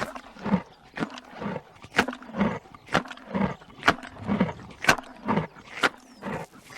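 A large animal calling in a rhythmic series of low throaty grunts, about one a second, alternating with short sharp rasps; the sequence starts abruptly.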